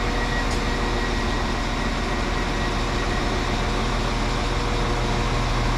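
A train idling at the platform: a steady engine hum that does not change.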